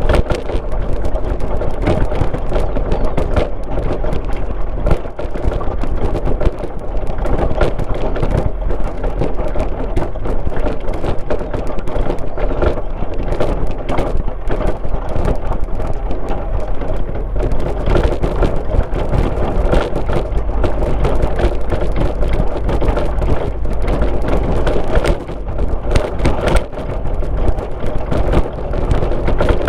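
A car driving along a rural road, with steady tyre and engine noise and frequent small knocks and rattles.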